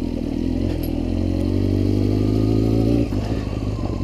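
Honda CBR600RR's inline-four engine running, its pitch climbing and getting louder from about half a second in, holding higher, then dropping back suddenly about three seconds in.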